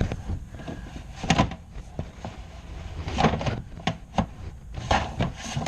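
Irregular knocks, clicks and scraping as a dryer vent cleaning brush on flexible rods is worked through a clogged dryer vent duct.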